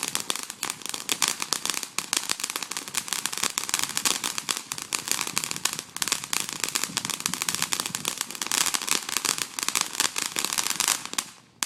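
Crackling consumer firework (poppers) going off: a dense, rapid stream of small pops and crackles that runs for about eleven seconds, then cuts off suddenly near the end.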